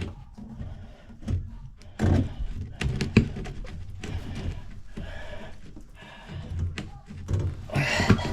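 Scattered knocks and clunks of hand work on plumbing: tools and parts being handled, with a louder cluster of knocks near the end.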